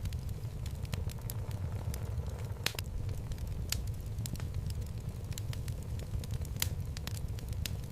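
Wood logs burning in a fireplace: a steady low rumble of flame with irregular sharp crackles and pops, a couple of them louder, about three seconds in and near the end.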